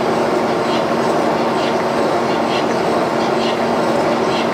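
Line boring bar turning and cutting steel, rebuilding worn, egg-shaped holes in a trailer suspension frame: a steady mechanical drone with a faint tick about once a second.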